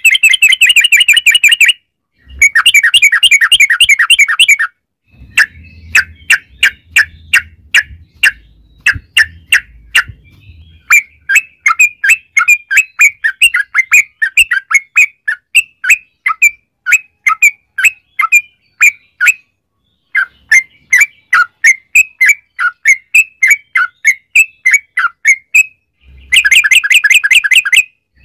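Yellow-vented bulbul (trucuk) singing. It opens with two bursts of fast bubbling trills, then gives a long run of quick, sharp chirps at several a second with short breaks, and ends on another dense trill.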